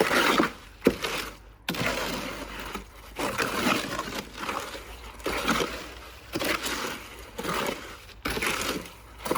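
A shovel scraping and turning wet cement mix, repeated gritty strokes roughly one a second.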